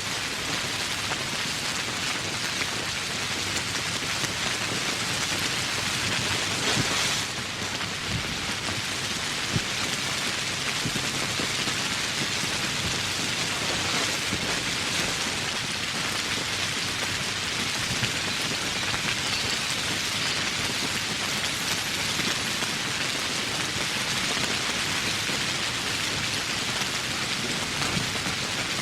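Steady heavy rain falling on foliage and surfaces, a dense hiss of drops with fine ticks of individual drops, swelling briefly about a quarter of the way in.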